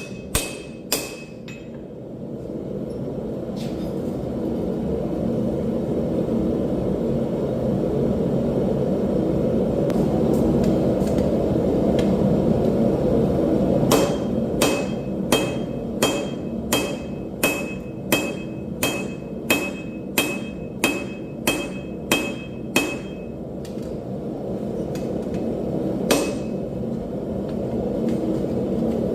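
Hammer blows forging railroad scrap steel on an anvil, each strike ringing. A few single blows come near the start and end, and a run of about fourteen strikes at roughly one and a half a second falls in the middle, all over a steady low rushing noise.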